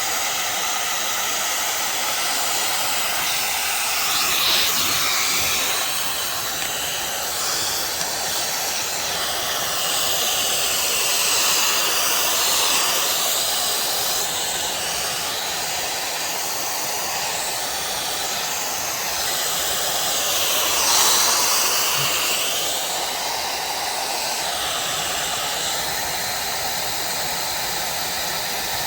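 Fanttik Solo 6-in-1 AirWave hot-air styler blowing, a continuous rushing hiss that swells and shifts in tone a few times.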